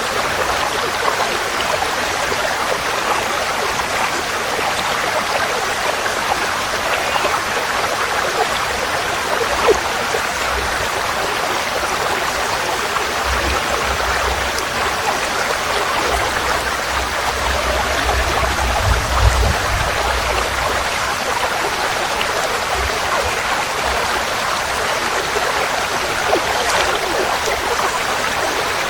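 Forest stream flowing steadily, a constant rush of water with no break.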